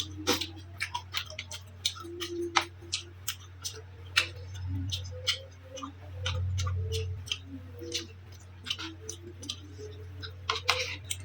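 Close-up eating sounds of someone chewing a meal of noodles with catfish and chicken feet: irregular wet clicks and mouth smacks, several a second, over a steady low hum.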